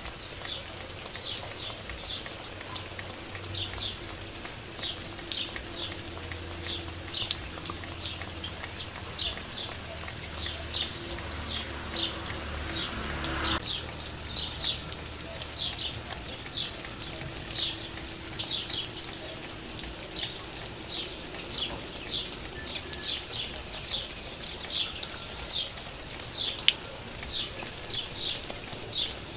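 Light steady rain with raindrops ticking, while a bird gives short high chirps about once or twice a second. A faint low hum runs through roughly the first half and stops about halfway.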